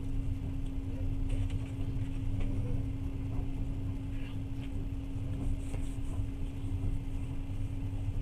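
Passenger train running at speed, heard inside the carriage: a steady low rumble of the wheels on the track with a constant hum and occasional faint clicks and rattles.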